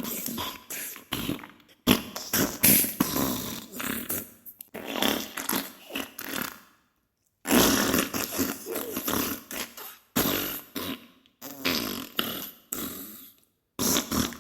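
Diarrhea sound effect: runs of rapid, sputtering fart bursts, broken by a second-long silence about halfway through and another short pause near the end.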